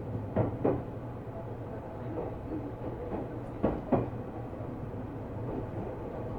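Seibu New 2000 series commuter train running, heard from inside the car: a steady low running hum, with the wheels clacking over rail joints in two quick pairs, near the start and again about three seconds later.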